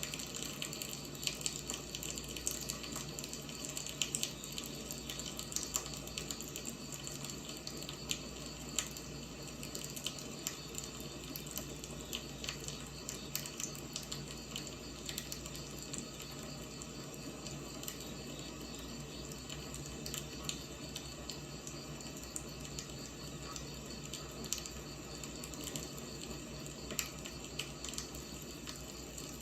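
Firewood burning in a fire, with a steady hiss and frequent irregular crackles and pops.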